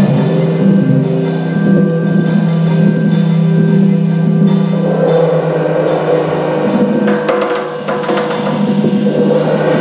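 Jazz organ trio playing live: held organ chords with drum kit, the drums and cymbals getting busier about seven seconds in.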